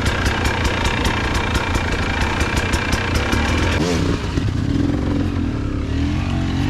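Motorcycle engine running close, with a rapid even ticking of about six a second over its hum. About four seconds in the ticking and upper noise cut off, and a lower engine note rises and falls briefly, then holds steady.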